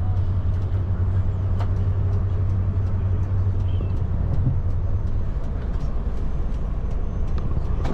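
Steady engine and road noise heard from inside a moving vehicle, with a low drone that eases a little about halfway through and a few faint rattles.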